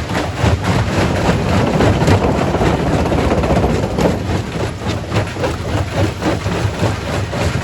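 Quarry primary rock crusher running and crushing stone: a continuous dense clatter of rocks knocking and grinding over a low machine rumble.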